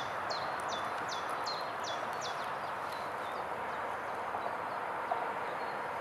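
A songbird singing a run of repeated high notes, each sliding down in pitch, about three a second, which stops a few seconds in; a steady hiss of outdoor background noise lies under it.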